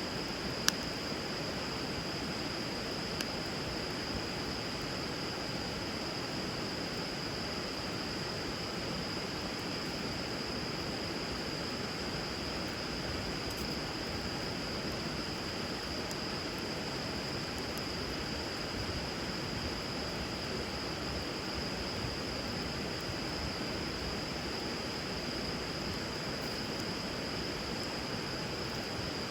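Steady rush of river water with a wood bonfire burning on it: one sharp crackle under a second in, a smaller one a few seconds later and a few faint pops after. A steady high-pitched tone sits above it.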